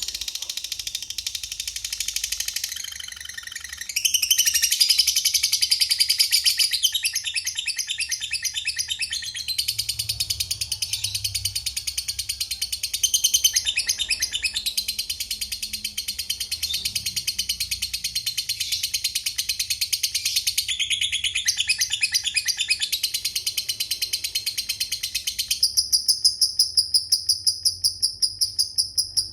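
Lovebird giving the long, continuous, high-pitched rapid chatter that fanciers call "ngekek panjang". It shifts pattern several times, and about 25 seconds in it becomes an even, fast run of high ticks (the "ngetik" ticking).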